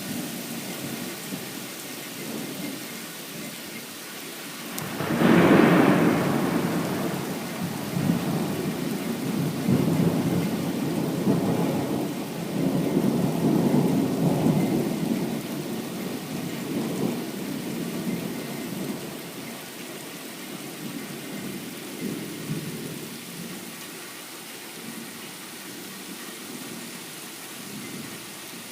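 Thunder in a heavy rainstorm. A sharp, loud clap about five seconds in rolls on as a long rumble that swells again a couple of times and fades over the next fifteen seconds, over a steady hiss of rain.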